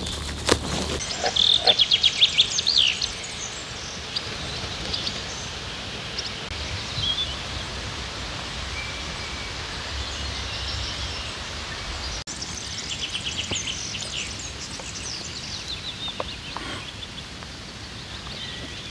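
Small birds singing outdoors, with bursts of rapid repeated high notes about two seconds in and again about thirteen seconds in, and scattered chirps over a steady background hiss.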